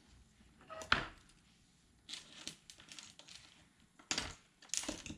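Handling noises at a soldering bench: a few short clicks and scratchy rustles as the circuit board and tools are worked.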